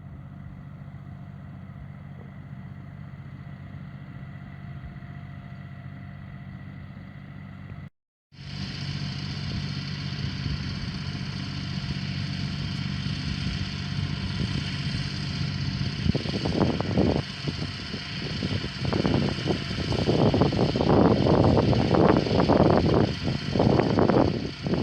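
An engine running steadily at a constant pitch, cut off abruptly about eight seconds in and then running again louder. In the second half, irregular gusts of wind buffet the microphone over it.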